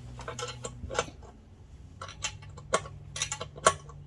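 Irregular light metallic clicks and clinks as the burners and their fittings on a stainless steel propane forge are handled and hand-tightened into place, the loudest click a little before the end.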